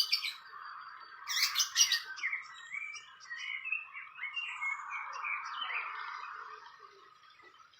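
Small birds chirping: a few loud, sharp calls about a second and a half in, then a run of short, quick chirps that fade out near the end, over a steady background hiss.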